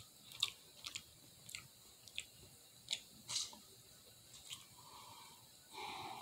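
A person chewing shrimp close to the microphone: quiet chewing broken by sharp mouth clicks every half second to a second, with a short hum near the end.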